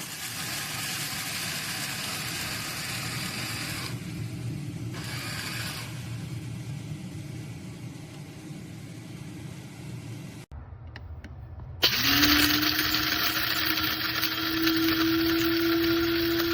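A steady, rough mechanical noise that cuts off abruptly; about a second later an electric blade coffee grinder's motor starts with a sudden onset and runs with a steady hum that creeps slightly up in pitch.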